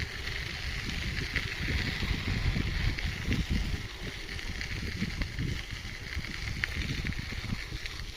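Wind buffeting the microphone of a moving bicycle, an uneven gusty rumble, over a steady high hiss of the ride.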